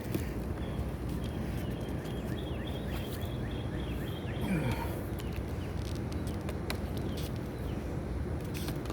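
Small birds chirping over steady outdoor background noise, with a few light clicks and knocks as PVC pipe sections are handled and fitted together.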